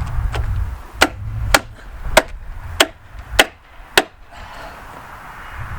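Hammer stapler driving staples: six sharp strikes about every 0.6 seconds, with low wind rumble on the microphone at the start.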